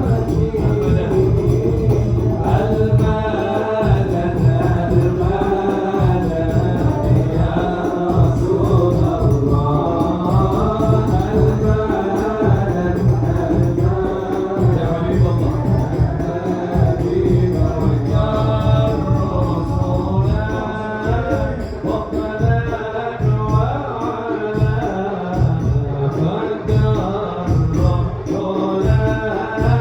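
A male voice sings an Arabic sholawat in a winding, ornamented melody, over a steady beat of frame drums.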